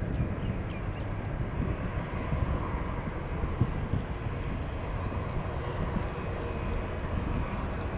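Boeing 787 jet airliner on landing: a steady low rumble of its engines and rushing air.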